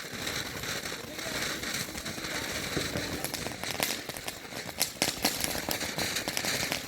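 Consumer fireworks going off: many sharp crackling pops, densest from about three to five and a half seconds in, over a steady hiss.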